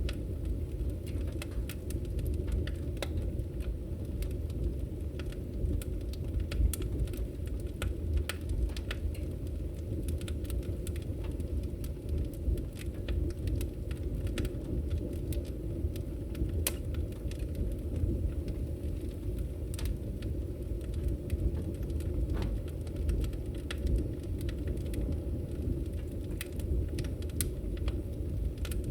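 Fire burning in a fireplace: a steady low rumble of flames with frequent small crackles and pops scattered throughout, one louder pop a few seconds in.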